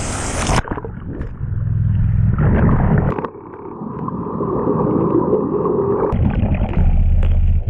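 Muffled rushing and gurgling of waterfall water with a deep rumble, dull and without its high hiss from about half a second in, as if heard from under the surface.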